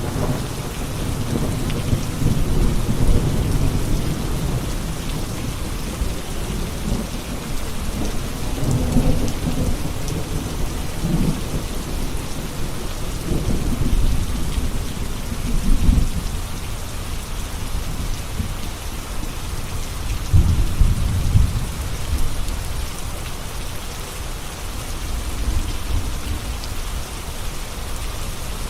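Steady rain with thunder rolling low several times, the strongest rumble about twenty seconds in.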